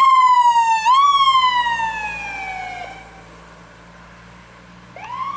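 Ambulance siren wailing as it passes: two quick upward sweeps about a second apart, each sliding slowly back down, fading out about three seconds in, then a new wail rising near the end.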